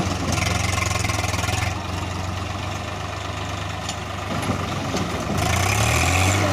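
Diesel engine running steadily, then revved about five and a half seconds in, getting louder with its pitch shifting.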